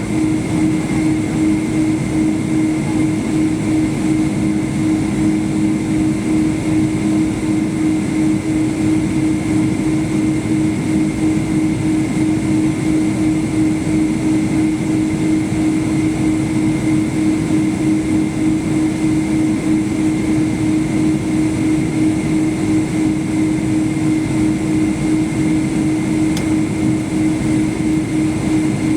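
Steady cabin noise inside a Boeing 777-200ER with its engines running at a constant setting ahead of the takeoff roll: a steady hum over even rushing noise, with no spool-up.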